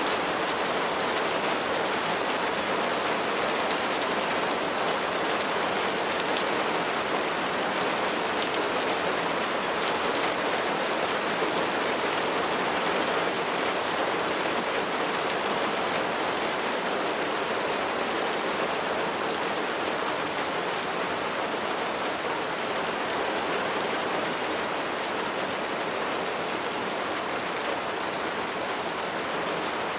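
Steady rain falling on a surface, a dense even patter of raindrops with fine scattered drop ticks.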